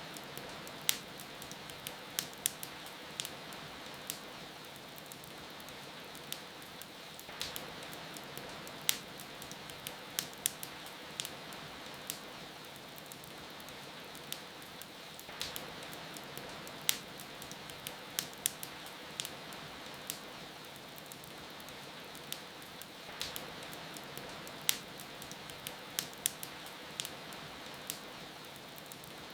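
Wood fire crackling with irregular sharp pops over a steady hiss of rain.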